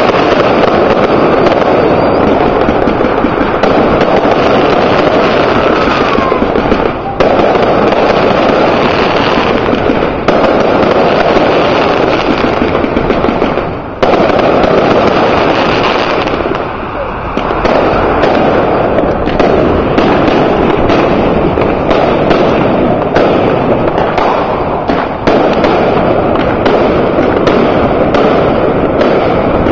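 Fireworks going off in a dense, continuous barrage of crackles and bangs, with a few brief lulls.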